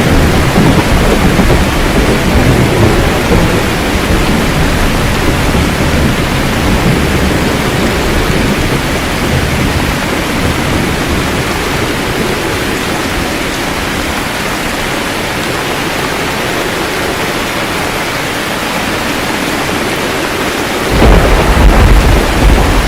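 Steady rain falling, with a rumble of thunder that rolls on at the start and dies away. A new, louder thunder rumble breaks in near the end.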